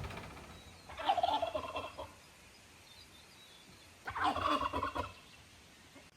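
Domestic turkey gobbling twice, each gobble a rapid rattling call about a second long, a few seconds apart.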